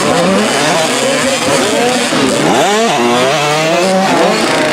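Several 65cc two-stroke motocross bikes racing, their engines revving up and down with pitches crossing one another. One engine rises and falls sharply about two to three seconds in.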